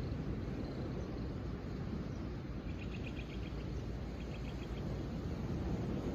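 Steady low rushing outdoor nature ambience, with two short trills of rapid high chirps from a small creature, about three and four and a half seconds in.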